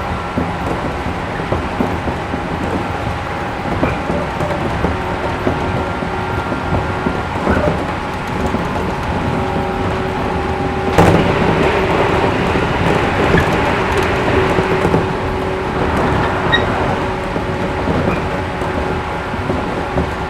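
Cabin running sound of a 113 series 1500-subseries electric multiple unit: steady wheel-on-rail rumble with a few held tones from the running gear. A sharp knock comes about halfway through, and the running noise is louder and harsher after it.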